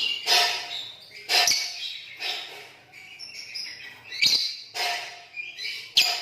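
Green lovebirds calling in harsh, chattering bursts about once a second, with high chirps and a few sharp clicks between them.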